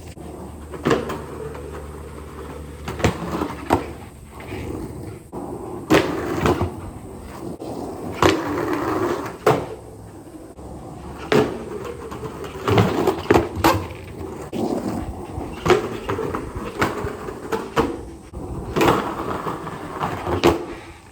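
Skateboard rolling on concrete, its wheels rumbling, with repeated sharp clacks and knocks as the board's tail and trucks strike the ground on pops and landings of tricks, some single and some in quick clusters.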